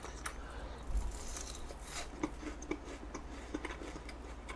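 Quiet eating: soft, scattered clicks and taps of utensils against a dish, with a brief rustle about a second in.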